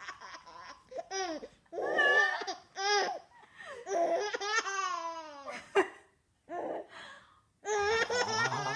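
Six-month-old baby girl laughing in short bursts, alternating with a woman's silly vocal noises that slide up and down in pitch, with a brief quiet pause a little past the middle.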